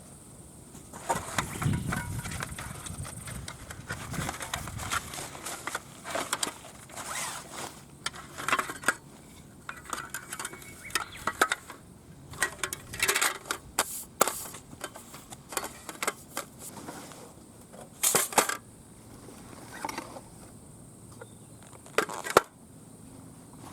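Light metal parts being handled, clinking and clattering irregularly, with a couple of sharper knocks near the end.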